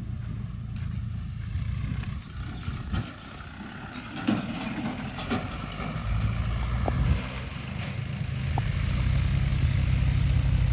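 Tractor diesel engine running steadily, louder from about six seconds in, with a few scattered clicks.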